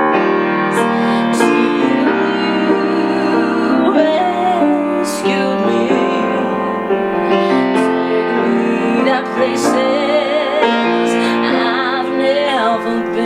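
Piano accompaniment with a woman singing over it, her longer held notes wavering with vibrato.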